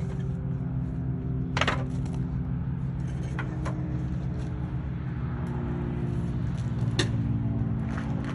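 An engine running steadily, its pitch shifting slightly about two-thirds of the way through, with several sharp metallic clinks and knocks, the loudest about two seconds in and near the end.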